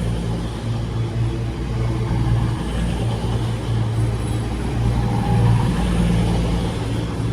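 Class 220 Voyager diesel multiple unit's underfloor diesel engines running at the platform, a steady low engine hum.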